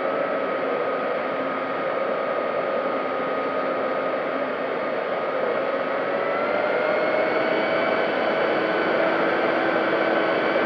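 Electric motor and propeller of an FMS P-40B Warhawk radio-controlled model plane in flight, heard through its onboard camera: a steady whine over rushing air, rising a little in pitch about six seconds in.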